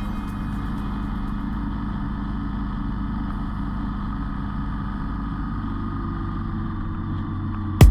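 Motorcycle engine running at a steady speed under way, with wind and road noise, the engine note shifting slightly near the end. A sharp, loud beat of electronic music cuts in at the very end.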